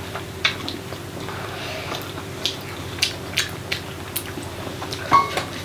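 People eating momo dumplings by hand: chewing and lip-smacking, with a scattered run of small sharp clicks over a faint steady hum.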